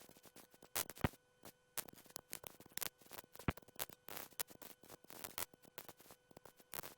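Faint, irregular clicks and crackles of static on a helicopter's radio and intercom audio feed, with a faint steady hum underneath.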